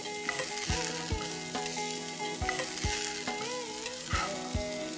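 Whole spices and chopped aromatics sizzling in hot oil in a pan while being stirred, with irregular knocks of the spoon against the pan, over soft background music.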